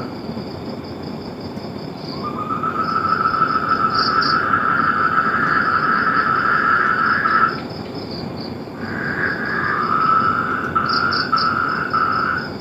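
A chorus of calling frogs: long, rapidly pulsed trills, one running about two to seven and a half seconds in and another from about nine seconds until near the end, overlapping one another, with a fainter high-pitched pulsed chirping of insects above them.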